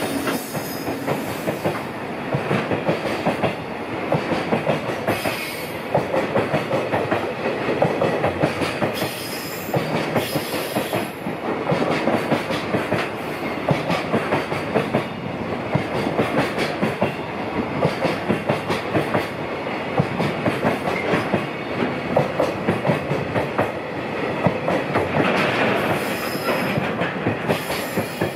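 Container freight train's flatcars rolling past, wheels clattering in a steady clickety-clack over the rail joints. A few brief high-pitched passages stand out, about nine seconds in and again near the end.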